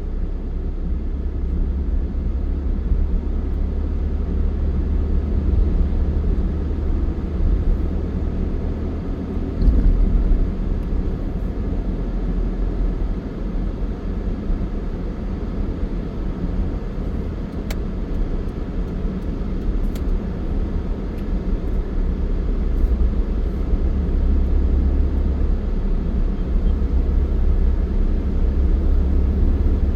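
Steady low rumble of a moving vehicle's road and engine noise, swelling and easing, with two faint clicks a little past halfway.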